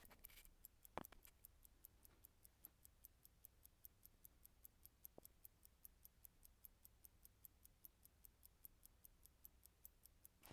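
Vintage hand-wound Thiel mechanical watch movement ticking steadily, about five ticks a second, with one louder knock about a second in.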